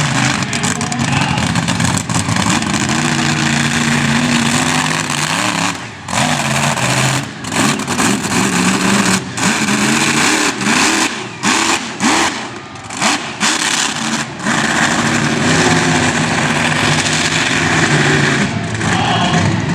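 Monster truck engine running loud and revving hard, its pitch rising and falling, with a quick series of throttle cuts and surges in the middle.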